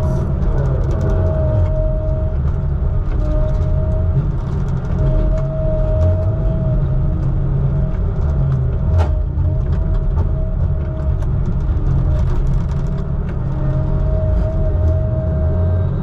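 A heavy diesel engine running steadily: a loud, even low rumble with a wavering whine on top that holds throughout.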